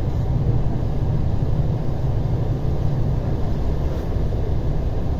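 Steady low rumble of an ER9T electric multiple unit running between stations, heard from inside the passenger car.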